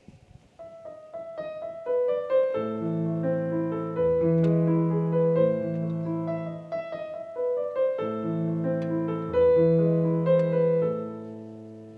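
Piano music: a few single notes open the phrase, then fuller chords with a bass line come in, and it fades away near the end.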